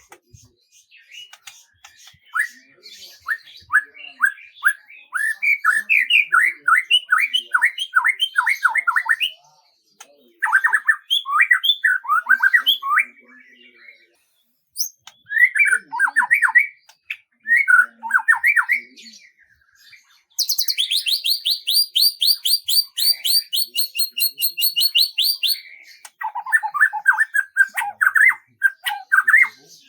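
Songbirds singing in separate phrases of quick, falling notes, with a fast, very high trill lasting about five seconds two-thirds of the way through.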